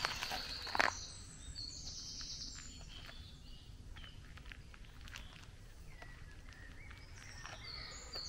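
Songbirds singing in the dawn chorus: short, high phrases of quick falling notes near the start and again near the end, over a faint outdoor background. A single knock about a second in.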